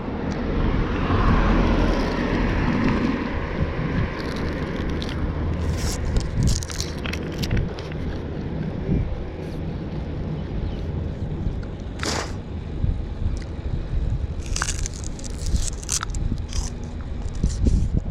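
Bicycle being ridden over a rough dirt road: a steady low rumble of wind and road noise, with scattered sharp ticks and crackles from tyres and frame, the loudest clicks about twelve seconds in and again near fifteen seconds.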